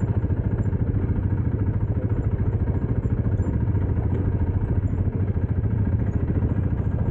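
Vehicle engine running steadily, a rapid, even stream of firing pulses.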